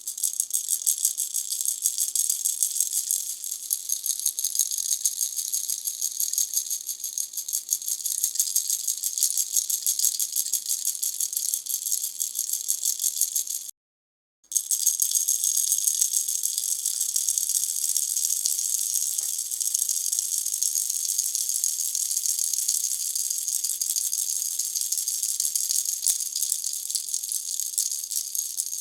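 Pineapple-shaped baby rattle shaken steadily and fast, a dense, even, high-pitched rattling of its filling. The sound cuts out completely for under a second about halfway through, then resumes.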